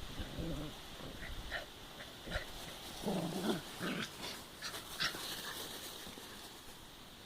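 Dogs playing together, making a cluster of short low and high-pitched vocal sounds, busiest in the middle and dying away near the end.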